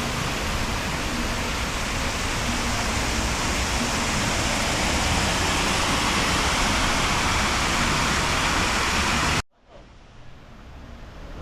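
Loud, steady rushing noise with no distinct tones, cutting off suddenly about nine seconds in, after which a much fainter hiss slowly rises.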